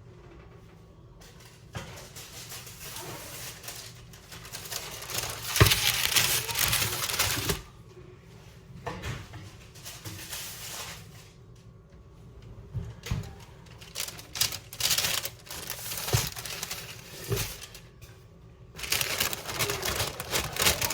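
Kitchen work sounds: scattered knocks and clatter, broken by several stretches of rushing noise a few seconds long.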